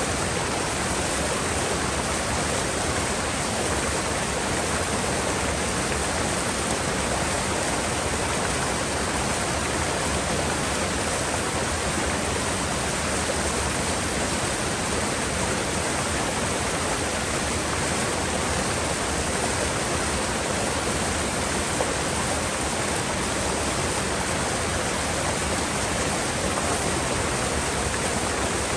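Mountain river water rushing steadily over rocks, a constant full hiss of flowing water that does not change.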